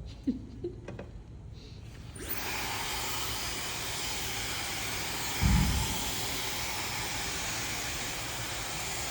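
Hand-held hair dryer switched on about two seconds in, then blowing with a steady airy hiss. A low thump comes about halfway through.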